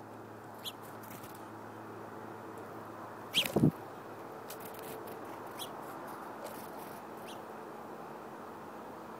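A few short, high bird chirps at a seed feeder, the loudest a quick falling chirp about three and a half seconds in, over a steady background rush.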